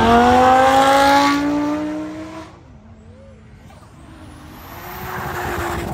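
Audi R8 accelerating hard past, its engine note climbing steadily in pitch, then dropping away suddenly about two and a half seconds in. Near the end, another car's engine and tyre noise swell more faintly as it drives by.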